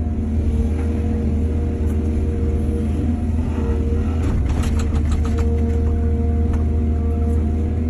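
Excavator's diesel engine running steadily under load, with a cluster of knocks and rattles about four to five seconds in and a few single knocks after.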